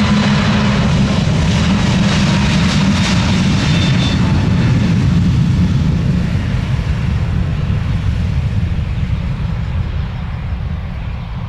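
Departing aircraft's engines running at takeoff power, a loud rumble with a thin high whine that dies away about four seconds in; the sound slowly fades over the second half as the aircraft moves away.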